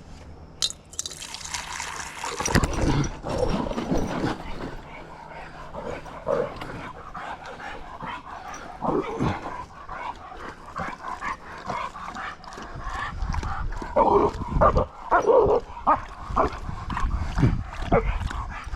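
Pet dogs barking and whining in excited, irregular bursts, loudest about a third of the way in and again near the end, as they react to the sight of other dogs.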